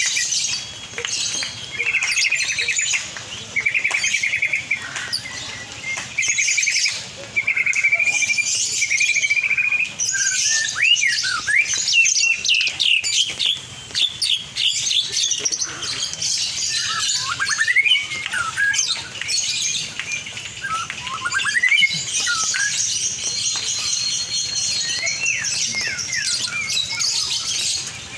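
Lovebird singing: bursts of rapid chattering trills about a second long, then quick sweeping chirps, and dense high chatter near the end.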